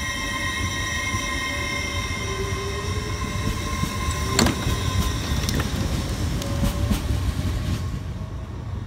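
LNER Azuma train moving past, with a steady high electric whine from its traction equipment over a rumble of wheels. A run of sharp wheel clicks sounds in the middle, and the high whine fades near the end as the last coach goes by.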